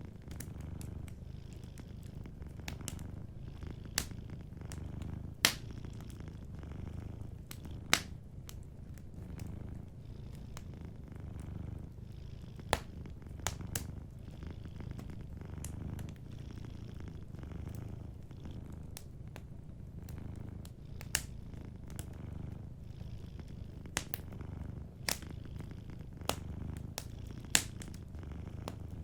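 Domestic cat purring, a low steady rumble that swells and eases with each breath, over a wood fire in a fireplace giving sharp crackles and pops every few seconds.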